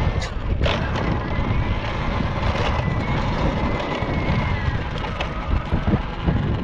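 Talaria Sting electric dirt bike riding over rough trail, with wind rumbling on the microphone, a faint high electric-motor whine that wavers slightly, and sharp clicks and rattles from the bike over the ground, two of them in the first second.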